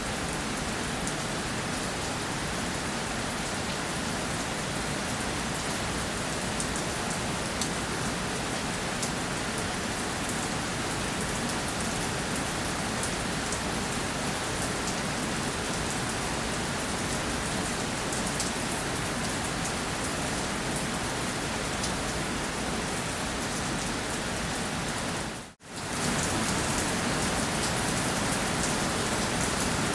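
Steady rainfall: an even hiss of rain on surfaces with fine scattered drop ticks. About 25 seconds in it fades out for a moment and comes straight back slightly louder.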